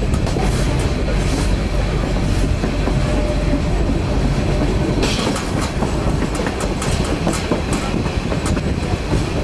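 Narrow-gauge passenger train running along the track, heard from on board: a steady rumble of the carriages with irregular clicks of the wheels over the rails.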